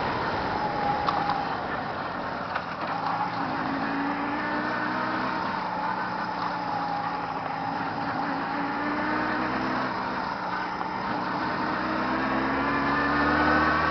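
Newly built vehicle engine running while driving; its pitch drops early on, holds steady, then rises toward the end as it speeds up.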